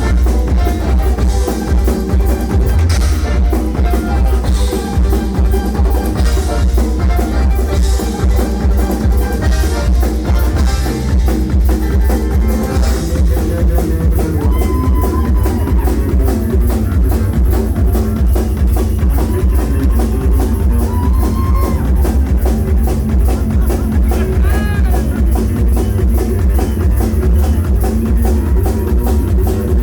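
A live bluegrass cover band playing a rock song, with the drum kit and bass drum prominent under the band.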